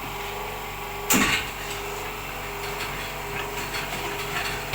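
Radiator flushing machine running with a steady hum while pressure is applied to the radiator, with one loud sharp burst about a second in.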